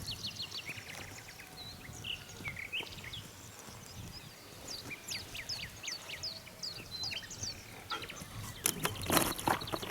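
Songbirds chirping in quick, high, descending notes, with a short burst of loud knocks or clatter near the end.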